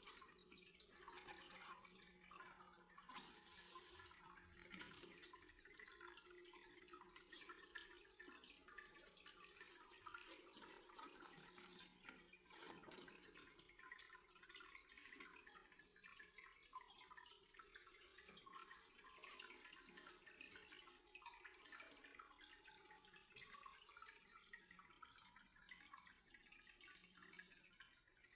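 Near silence with faint water trickling and dripping throughout.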